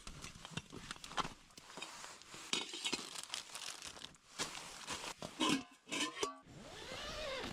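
Rustling, crinkling and clicking handling noises as gear and clothing are moved inside a tent, with a brief pitched sound a little after five seconds in.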